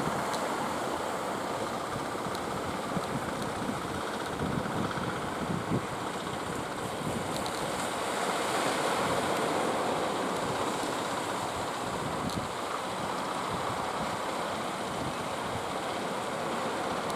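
Sea waves breaking and washing steadily, with wind buffeting the microphone.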